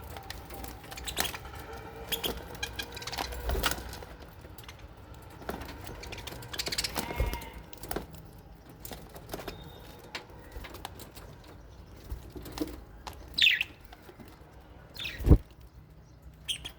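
Lovebirds and budgies in an aviary: wings flapping, a few short chirps, and scattered clicks and knocks, the loudest a sharp knock about fifteen seconds in.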